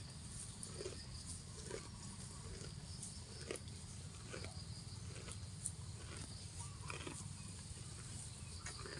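A grazing cow tearing off and chewing grass: short, crisp rips about once a second, over a steady low rumble.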